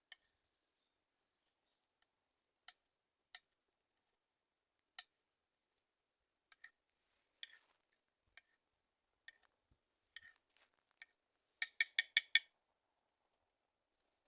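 Scattered light clicks, then a quick run of about six sharp clinks near the end: cooking utensils knocking against cookware.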